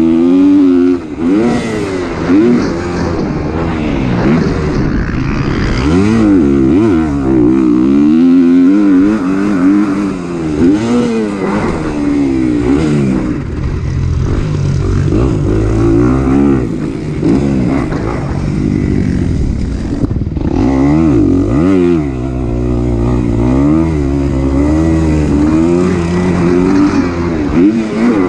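Kawasaki KX250 four-stroke single-cylinder motocross bike engine at race pace, its pitch rising and dropping again every second or two as the throttle is opened and closed.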